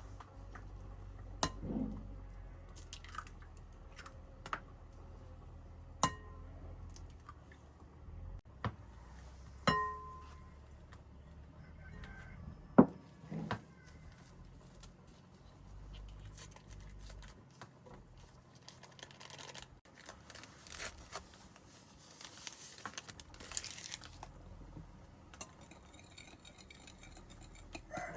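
Scattered clinks and knocks of pots, dishes and utensils being handled, a few ringing briefly.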